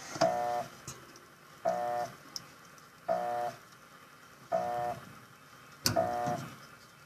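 Electrolux washing machine's buzzer beeping over and over: five identical short beeps about a second and a half apart, with a sharp click just before the last one.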